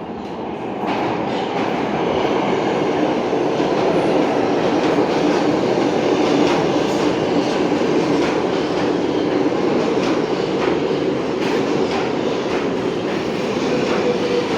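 R142A subway car running, heard from inside the car: a steady rumble that builds about a second in, with repeated clicks of the wheels over rail joints.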